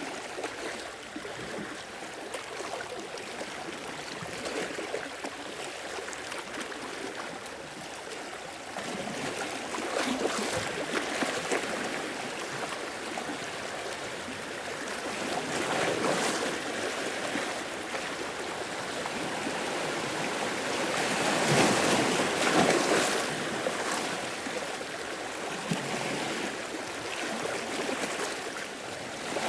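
Sea waves washing in and draining back, a steady wash of water that swells louder with each wave, most strongly about a third of the way in, around halfway, and near three quarters of the way through.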